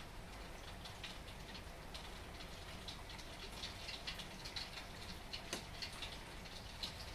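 Rain falling, with many individual drops ticking irregularly on a hard surface over a steady hiss and a low, even rumble. A few drops stand out louder, one near the end.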